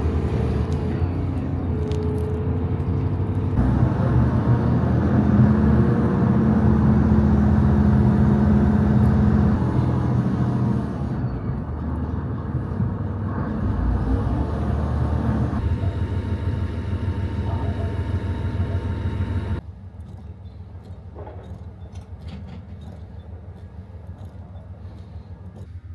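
Local train running: a steady low rumble that drops sharply to a quieter rumble about twenty seconds in.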